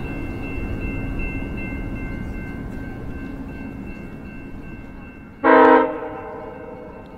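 Departing passenger train running off into the distance, a steady rumble with a high, steady whine that slowly fades. About five seconds in, one short, loud blast of its horn.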